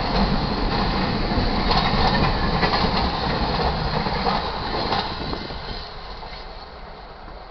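Intermodal freight train cars rolling past close by, the wheels clacking over the rail joints. The last car passes about five seconds in, and the rumble then fades away.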